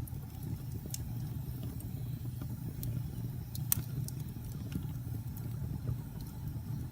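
Logs burning in a fireplace: a steady low sound of the flames with scattered sharp crackles and pops, the loudest a little over halfway through.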